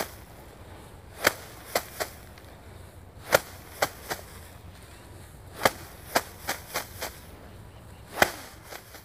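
Bundles of harvested rice stalks beaten by hand against a hard surface to thresh the grain: four rounds of sharp strikes, each a loud blow followed by one to four lighter ones.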